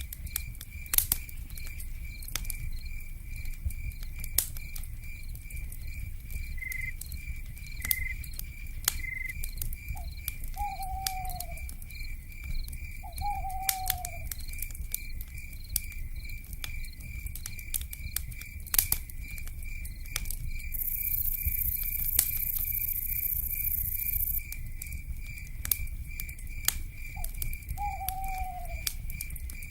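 Crackling wood fire with scattered sharp pops over a low rumble, under a steady pulsing insect trill. An owl gives a few short, falling hoots, two near the middle and two near the end. A spell of high hiss comes in for a few seconds past the middle.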